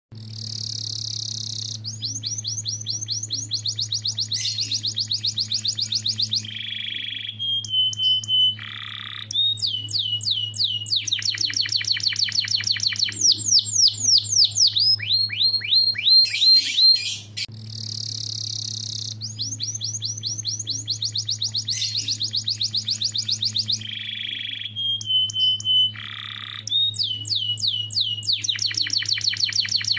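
Domestic canary singing in full song: long runs of rapid high-pitched trills, rolls and buzzy notes. About halfway through, the same song sequence starts over, as in a looped recording. A steady low hum runs underneath.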